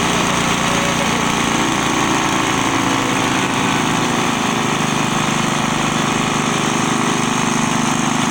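Engine-driven forage chopper for grass and straw running steadily.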